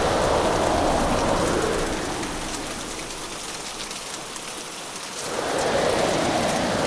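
Hurricane rain and storm noise: a heavy, steady rush of rain with faint patter of drops. About two seconds in the deep rushing eases into a lull, then surges back strongly about five seconds in.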